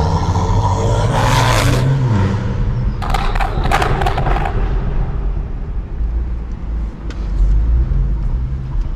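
BMW 335i's N55 turbocharged inline-six heard at the exhaust under hard acceleration: the revs climb, then fall at an upshift about a second and a half in. A stretch of harsh crackling rasp follows around three to four seconds in, over a steady low exhaust drone.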